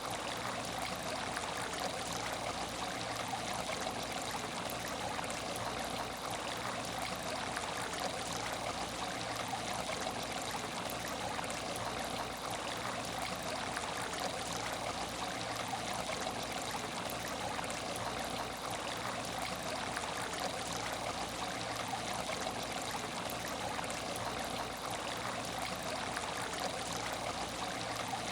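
Water trickling steadily in an aquarium tank, an even, unbroken flow with a faint steady hum underneath.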